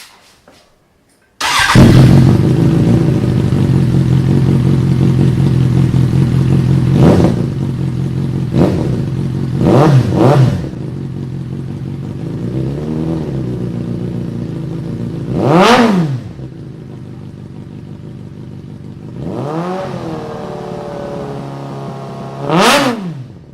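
Suzuki GSF650 Bandit inline-four engine through a non-catalysed Roadsitalia Doublefire carbon exhaust: it starts abruptly about a second and a half in, idles, and is blipped in about eight short throttle revs, the idle settling lower partway through. It shuts off right at the end.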